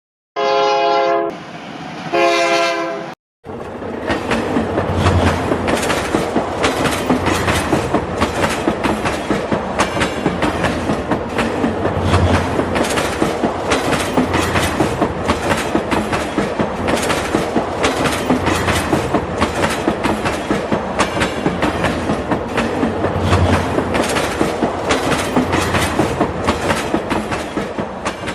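A train horn sounds two blasts, the second cutting off abruptly. After a brief break, train wheels clack over the rail joints in an even, rapid clickety-clack with a running rumble.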